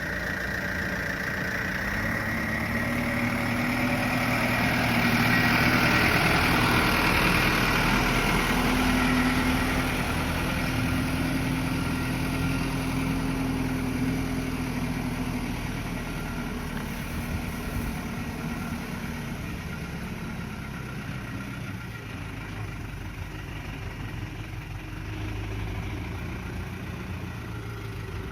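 Diesel engine of a dump truck loaded with sand, running at low speed. It grows louder to a peak several seconds in, then slowly fades.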